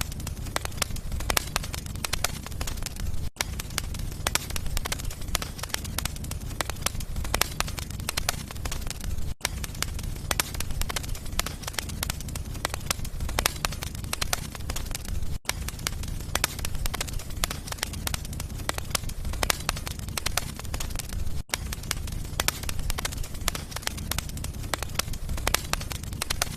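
Wood fire crackling in a fireplace: dense, irregular pops and snaps over a low, steady rumble of flame. Very brief gaps recur about every six seconds.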